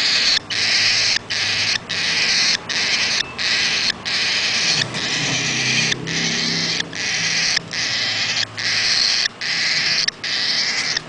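Eight-day-old nestling birds calling without let-up in high, hissy cheeps, broken by short pauses about every half second to a second.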